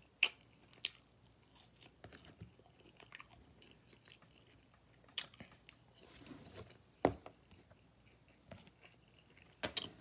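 Close-up chewing and wet mouth smacks of a man eating barbecue-sauced ribs, with scattered sharp clicks and a few louder smacks spread through.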